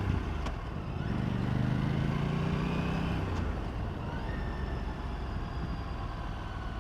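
Aprilia RS 457's parallel-twin engine pulling under a little throttle at low speed, its note rising for about three seconds, then the revs winding down slowly as the throttle closes and the engine brakes the bike.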